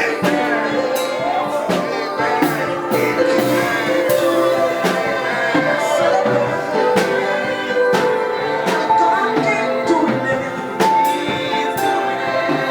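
Live church worship music: sustained keyboard chords over scattered drum and cymbal hits.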